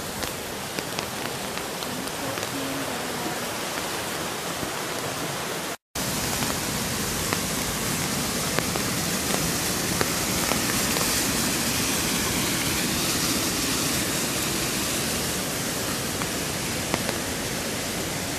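Rain-swollen creek and waterfall, water rushing with a steady, even noise. The sound drops out for an instant about six seconds in and comes back fuller and slightly louder.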